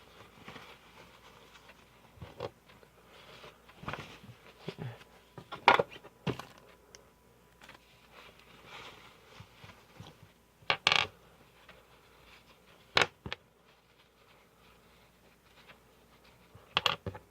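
Small hard objects clattering and knocking now and then as boxes of small parts are rummaged through, with sharp clinks around six, eleven, thirteen and seventeen seconds in.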